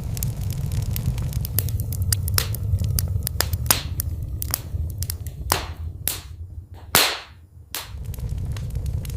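Wood fire in a fireplace crackling over a steady low roar, with frequent sharp pops and snaps. The loudest snap comes about seven seconds in, and the low roar briefly drops away around then before returning.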